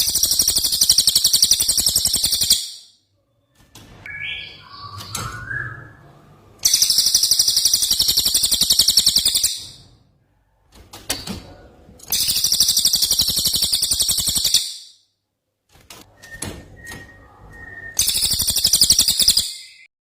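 Cucak ijo (green leafbird) singing its 'tembakan' song: four loud, very high, rapid trilled bursts of a few seconds each, spaced about six seconds apart, with softer short calls in between.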